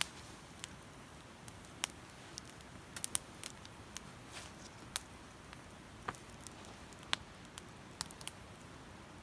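Damp firewood burning in a campfire, crackling with irregular sharp pops over a faint steady hiss.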